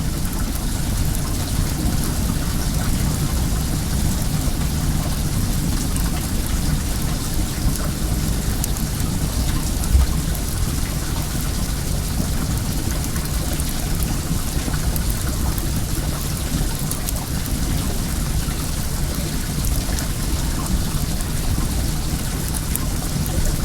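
Well water running steadily, with the fine crackle of a wood bonfire over it. A single dull thump about ten seconds in.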